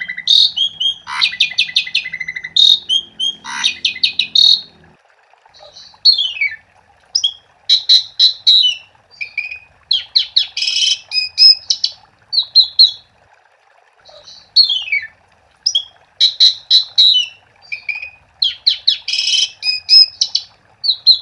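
Jalak suren (pied starling) singing an energetic, varied song of chirps, buzzy rattles and whistles, several of them falling in pitch. The notes run almost continuously for the first few seconds, then come in short phrases with brief gaps.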